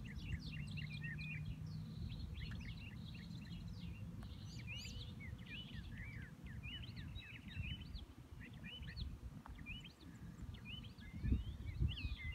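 Small birds chirping and twittering in many quick short calls, over a low steady rumble of outdoor noise. A few soft low thumps come near the end.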